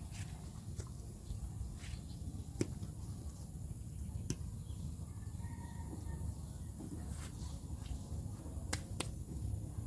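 Twigs and sticks cracking in scattered sharp snaps, about seven of them, the loudest about two and a half seconds in, over a steady low rumble.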